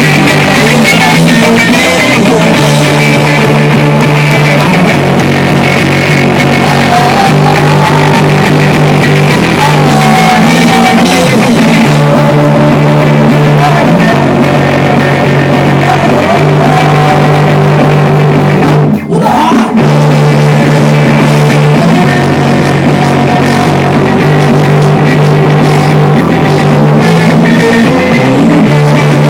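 Loud rock music with guitar and drums, playing steadily; it cuts out for a split second about two-thirds of the way through.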